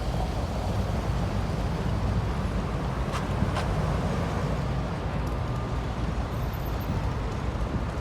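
Road traffic on a busy city street: a steady rumble of passing cars, with two faint clicks about three seconds in.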